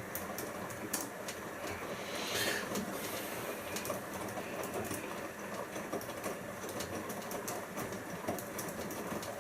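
Siemens iQ front-loading washing machine in its first rinse: the drum turns the wet load with a steady churning noise and irregular light clicks.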